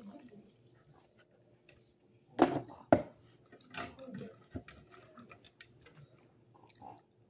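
Close-up chewing and mouth noises of someone eating, with scattered small clicks and two sharp, louder sounds about two and a half and three seconds in.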